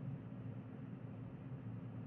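Cooling fans of a DJI Power 2000 portable power station running steadily, a low even whir with a hum underneath. They run at speed under a load of only about 1 W, which the owner takes for abnormal fan behaviour.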